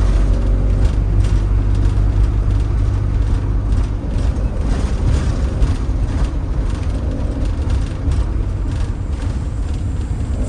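Camper bus driving along: a steady low engine and road rumble, with scattered light rattles and knocks.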